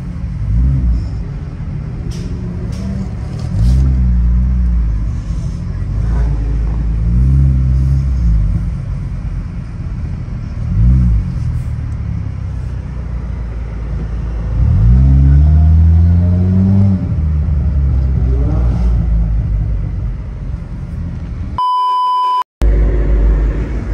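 Car engines revving and accelerating over a steady low rumble, the pitch sweeping up and back down several times, with one longer climb in the middle. Near the end a short, steady electronic beep tone sounds, followed by a split-second cut to silence.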